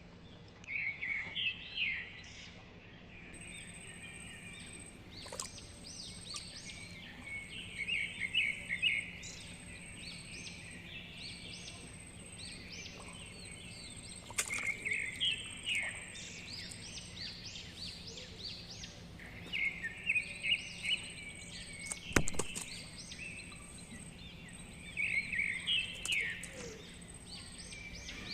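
Birds chirping in short bursts of song every few seconds over a faint steady hum, with one sharp click about 22 seconds in.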